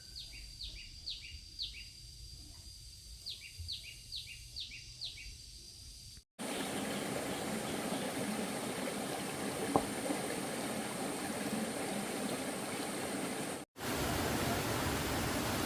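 A bird calls in two series of short, quickly falling chirps. Then, after a cut, a steady rushing noise takes over, with one sharp click partway through, and it grows louder after a second cut.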